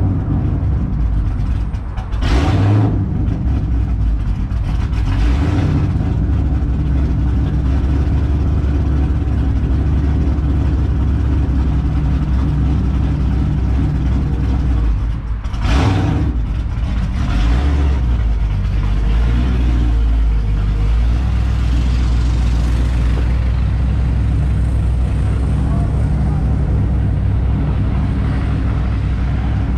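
Straight-piped, cammed Ford Mustang GT 4.6 L three-valve V8 running loud through long-tube headers, an X-pipe and muffler deletes, with a deep steady rumble. A few short sharp bursts break in, about two seconds in and again around fifteen seconds in.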